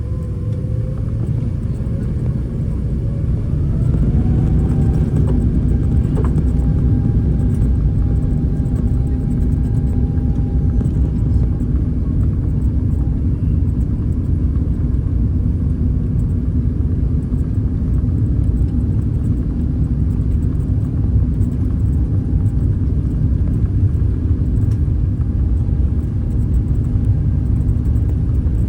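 Airbus A350 cabin noise: the Rolls-Royce Trent XWB engines' whine rises over the first few seconds and the level climbs as they spool up. After that comes a steady, loud rumble.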